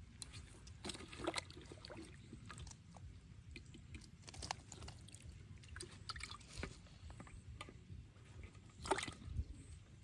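Water splashing and sloshing in irregular small bursts, with scattered knocks and a steady low rumble.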